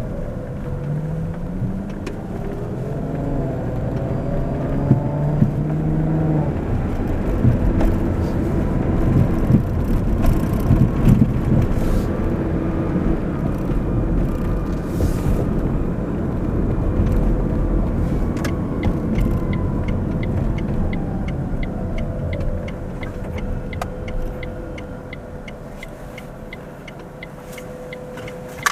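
Car being driven: the engine pitch rises in steps as it accelerates through the gears, it cruises with road noise, then the engine note falls as it slows. A regular ticking sets in about two-thirds of the way through.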